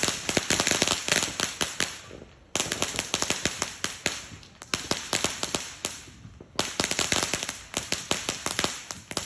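Firecrackers going off in rapid strings of sharp pops. There are three bursts, each starting suddenly and thinning out: one at the start, one about two and a half seconds in and one past the middle.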